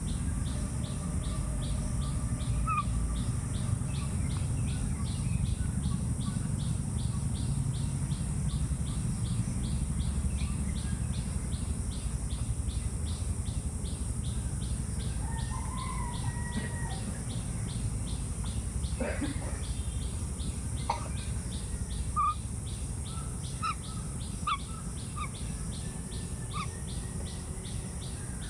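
Small birds chirping: scattered short calls and brief whistled notes, thickening near the end, over a steady, rapidly pulsing high buzz and a low rumble.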